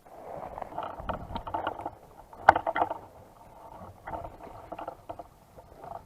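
Irregular rustling and crunching noise in short bursts, with one sharp click about two and a half seconds in.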